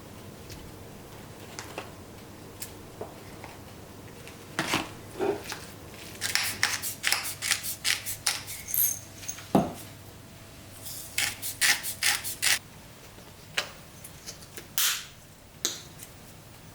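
Kitchen handling sounds: sharp clicks, taps and clatter of utensils and dishes, in two quick bursts with a louder knock about nine and a half seconds in.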